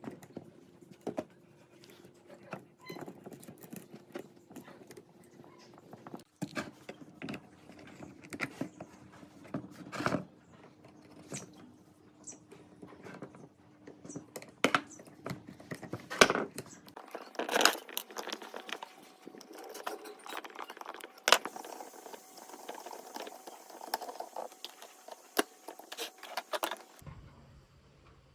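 Irregular clicks, knocks and metallic clinks of small hard parts being handled and fitted, over a faint steady hum.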